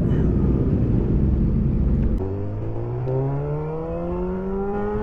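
Heavy wind rumble over a motorcycle engine. About two seconds in the wind noise drops away, and the engine is heard clearly revving steadily higher in pitch as the bike accelerates.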